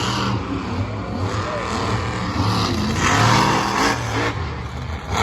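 Monster truck engine running hard and revving, its pitch rising and falling, with a louder surge about three seconds in.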